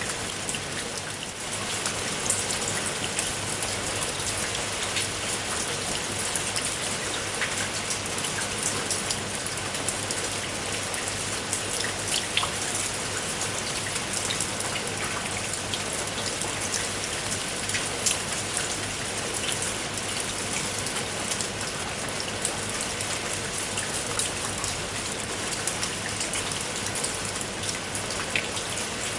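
Steady rain falling, with many separate drop hits ticking out above an even hiss.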